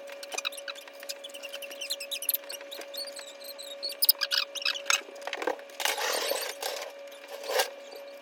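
Quick small clicks, squeaks and clatter of hand tools at work, over a steady high hum, with a few louder scraping noises about six and seven and a half seconds in.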